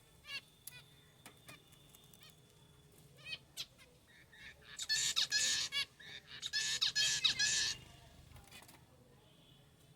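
Finches calling: short chirps here and there, then two dense bursts of rapid, overlapping calls around the middle, each about a second long.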